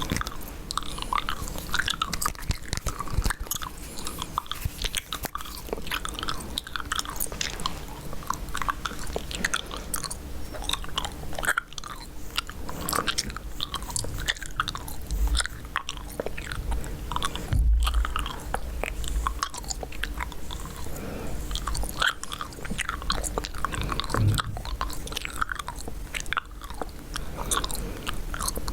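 Close-miked chewing gum: steady, continuous chewing with many small wet smacks and clicks of the mouth.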